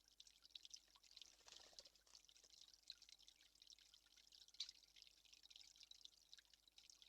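Faint, irregular dripping: many small, quick ticks at an uneven pace.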